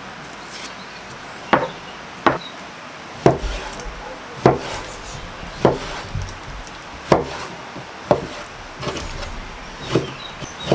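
Repeated chopping blows on wood, about eight or nine strokes at irregular intervals of roughly a second.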